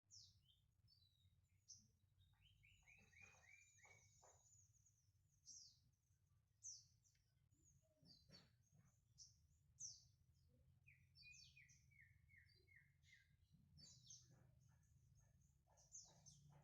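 Faint songbirds chirping, with two runs of quick repeated falling notes, over a steady low hum.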